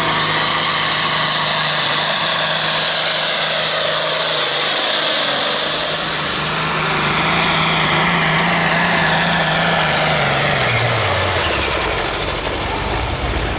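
Case 2394 pulling tractor's diesel engine running flat out as it drags the weight-transfer sled down the track. Its low note holds steady, then falls away about eleven seconds in as the tractor comes to the end of its pull.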